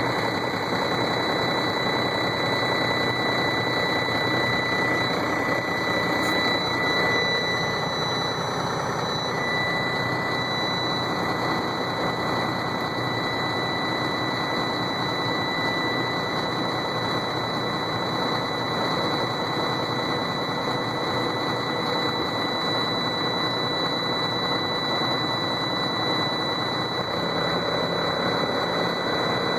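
Diesel engine of a Sterling roll-off truck idling steadily just after a cold start, heard from inside the cab, with a continuous high-pitched cab warning buzzer sounding over it: the truck's shutdown warning, silenced by hitting the override button.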